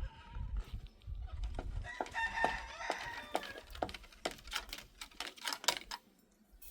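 A rooster crowing once, about two seconds in, among scattered sharp knocks and clicks.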